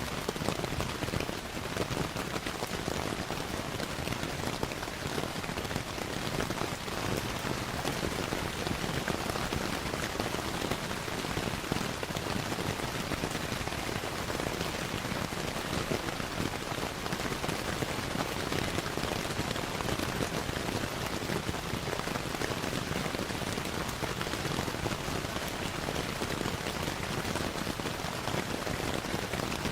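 Steady rain falling, mixed with the crackle of a wood fire, with small pops scattered throughout.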